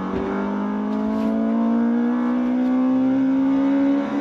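Honda Civic Type R engine accelerating hard in third gear from low revs, its pitch climbing steadily toward the redline, with the carburation freshly tuned. It is heard as onboard footage played back through a laptop's speakers.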